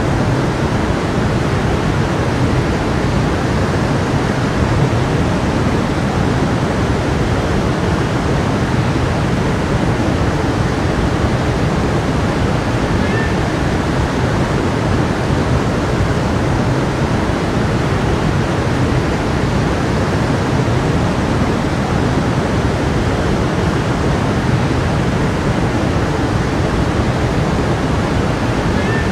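A stream of water flowing steadily, one loud, even rush of water with no breaks or changes.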